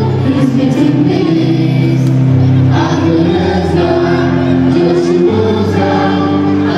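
Music with a choir singing held notes over an instrumental backing.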